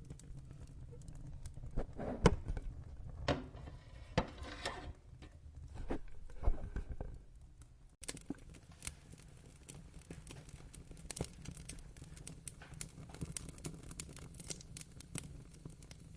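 Wood fire crackling, with a low rumble of flame under scattered snaps and pops. A few louder pops come in the first half, and after a brief dip about halfway through the crackling turns denser and finer.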